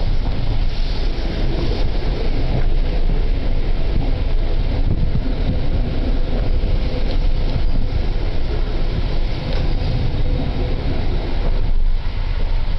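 Train running, heard from on board: a steady, loud rumble with wind noise on the microphone.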